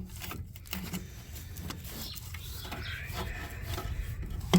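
Scattered clunks and scrapes of a truck starter motor being wiggled and worked loose from its mount, ending in a sharp metallic knock.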